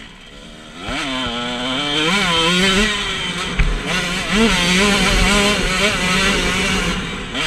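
KTM 125 SX two-stroke single-cylinder engine revving hard under acceleration. It is low at first, then the pitch climbs sharply about a second in and keeps rising and dropping as the bike accelerates and shifts through the gears.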